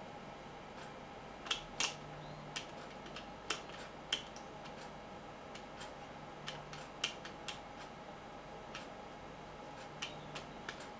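Irregular light clicks and taps of small plastic radio parts being handled and fitted together, a dozen or so scattered unevenly, over a faint low hum.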